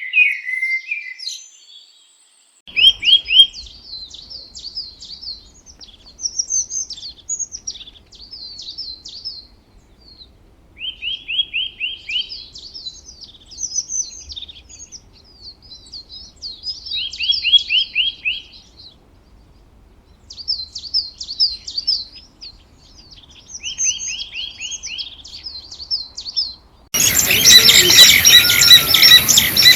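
Songbirds singing in repeated short phrases, each a quick run of rapid notes mixed with higher warbling, recurring every few seconds. Near the end the sound cuts abruptly to a louder stretch of dense bird calls over a steady hiss.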